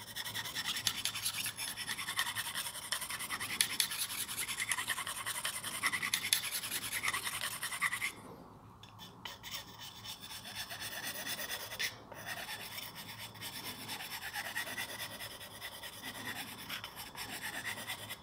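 Steel carving chisel honed by hand on a small piece of oilstone: quick, light rubbing strokes of steel on stone, stopping briefly about eight seconds in and then going on. The honing takes off the burr left by the grinding wheel.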